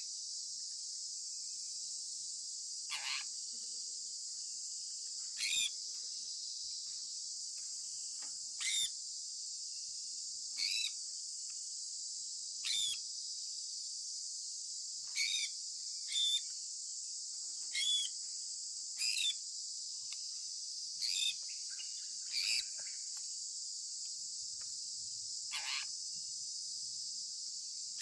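Sun conure making short, sharp chirps, about a dozen of them every one to three seconds, over a steady high-pitched hiss.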